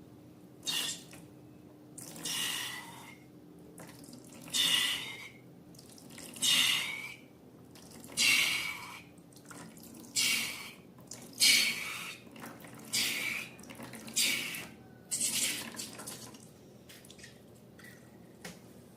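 Wet, squelching liquid sounds of slime or its ingredients being worked: about ten short separate squishes, one every second and a half to two seconds.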